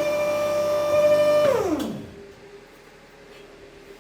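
Small electric motor whining at a steady pitch, then switched off about one and a half seconds in and winding down with a falling whine, a click partway through the run-down.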